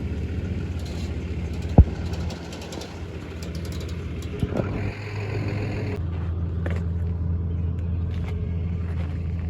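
A truck engine idling with a steady low rumble, a single sharp knock about two seconds in, and the engine getting louder at about six seconds.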